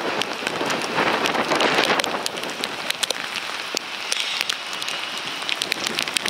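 Heavy rain falling steadily, with many sharp taps of drops striking close to the microphone; a little louder in the first couple of seconds.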